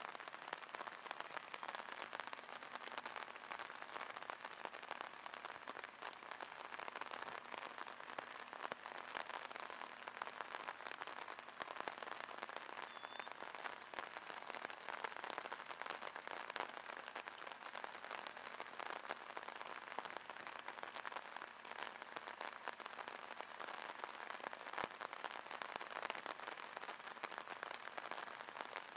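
Steady rain falling on the water of a drainage ditch and the wet ground around it: an even hiss of countless small drop impacts.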